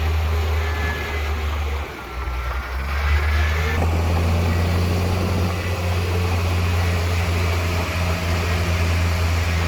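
Heavy diesel engine of earthmoving machinery, a bulldozer or dump truck, running with a steady low drone that dips briefly about two seconds in.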